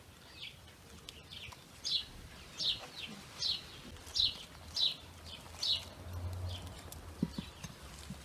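A songbird calling over and over: short, sharp chirps that fall in pitch, a little more than one a second.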